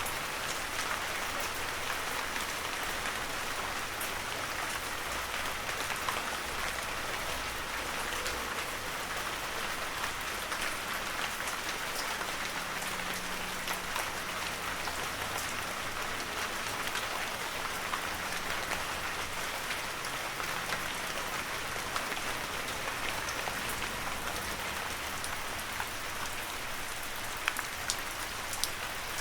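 Heavy rain falling steadily: a dense, even hiss with many sharp individual drop hits scattered through it.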